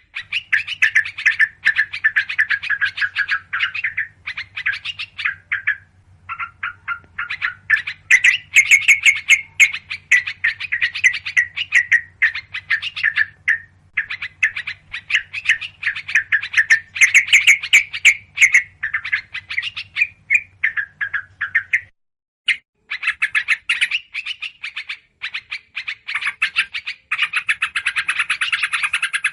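Agitated, rapid chattering calls of yellow-vented bulbuls mixed with other small birds, a dense run of short calls as used in a bird-lure recording. A faint low hum runs beneath until a brief break about three quarters of the way through.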